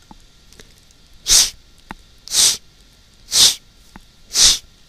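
A person's voice making the 'sh' sound four times, each a short hiss about a second apart, pronounced as a phonics demonstration of the 'sh' sound.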